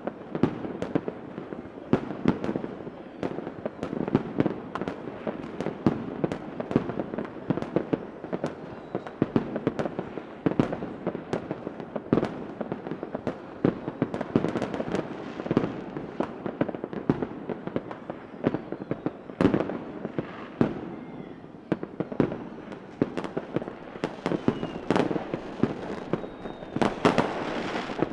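Fireworks display with many overlapping bangs and crackles going off continuously at an irregular pace. A few faint whistles sound in the second half.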